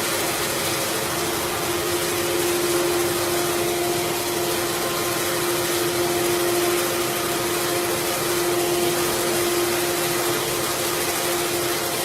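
CNC wood router running steadily: a constant whine held on one pitch over a rushing hiss.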